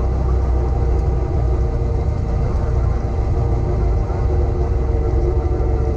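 Cessna 172's piston engine and propeller running steadily with a deep rumble.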